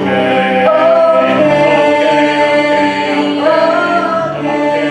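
Music: several voices singing held notes in harmony, with the pitch sliding to a new chord about three and a half seconds in.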